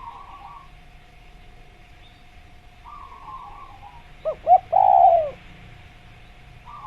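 Spotted dove (tekukur) cooing once about four seconds in: two short notes, then a longer coo that falls in pitch. Faint chirps and a faint steady tone run underneath.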